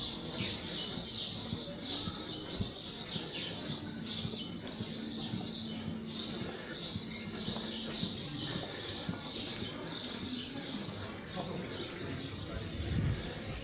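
Small birds chirping: a steady stream of short, repeated high notes, two or three a second, over a low background rush.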